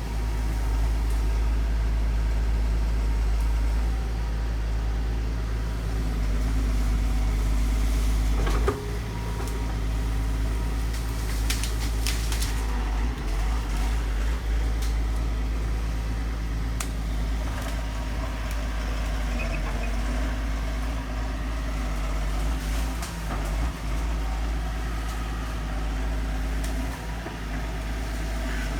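Heavy earthmoving machine's engine running steadily, with a few short sharp clicks or snaps over it about a third of the way in.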